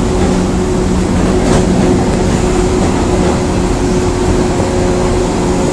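Electric commuter train heard from inside the passenger car while running: a steady loud rumble of wheels on rails with a low hum held at a steady pitch.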